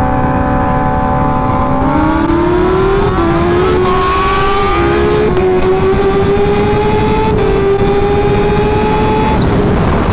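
Kawasaki Ninja H2's supercharged inline-four engine holding a steady note for about two seconds, then pulling hard with its pitch climbing through several gear changes, over steady wind rush.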